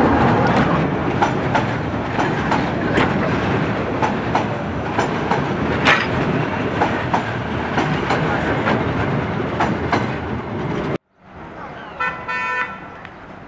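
Diesel-hauled passenger coaches rolling past close by: a steady loud rumble with repeated sharp clanks of the wheels over the rail joints. It cuts off suddenly about eleven seconds in.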